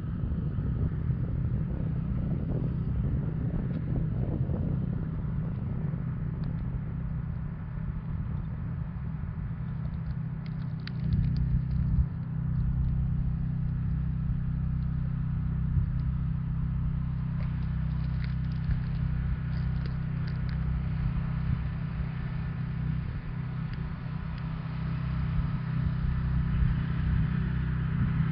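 An engine running steadily with a low, even hum, growing louder and fuller about eleven seconds in, with a few faint clicks over it.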